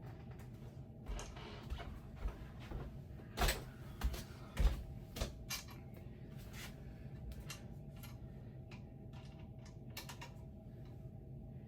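Ceiling fan parts and hardware being handled during assembly: a run of sharp knocks and clicks in the first half, the loudest about three and a half and four and a half seconds in, then lighter scattered clicks, over a steady low hum.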